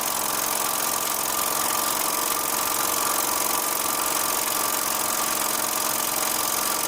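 Bowman M140 model steam engine running steadily on compressed air at about 5 psi: an even, fast hiss of air exhausting from the cylinder, with a thin steady tone.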